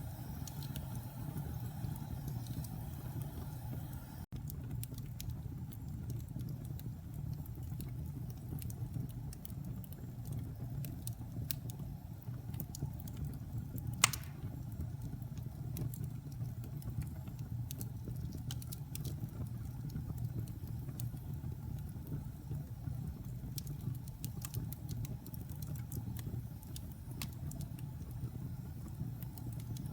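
Fire crackling in a fireplace: a steady low rumble with scattered small crackles, and one sharp, loud pop about halfway through.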